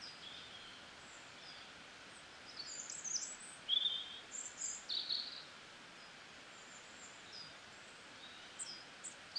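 Small birds chirping in short, high calls, in clusters through the first half and again near the end, over a steady faint hiss.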